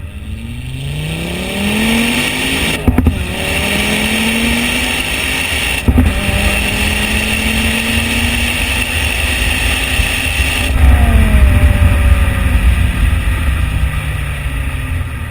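Ford Focus ST with an aftermarket exhaust accelerating through the gears. The engine note rises, breaks with a short crack at each of two upshifts (about three and six seconds in), then climbs slowly. About eleven seconds in the driver lifts off and the note falls away.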